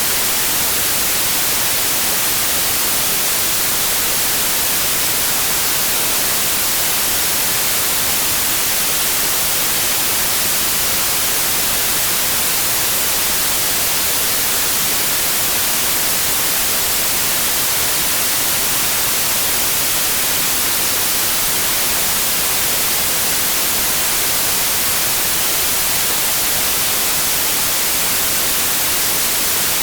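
Steady white noise: an even, unchanging hiss, strongest in the high end, with no tones or breaks.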